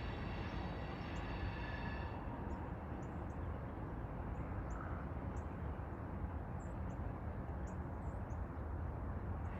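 Steady low rumble of a distant train's diesel locomotives approaching. A high tone made of several pitches sounds over it and stops about two seconds in, and short high bird chirps come and go.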